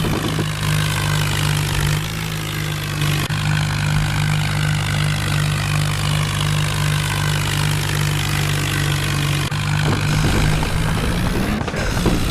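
Tractor engine idling steadily, then rising in pitch as it revs up near the end.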